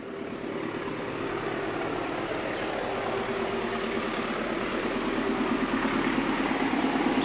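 Diesel-electric locomotive approaching, its engine hum with a few steady tones growing gradually louder over the rumble of the train.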